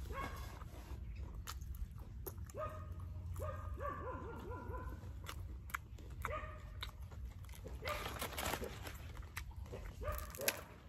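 A dog whining in short falling yelps, repeated many times with a quick run of them in the middle, over scattered sharp clicks and crackles.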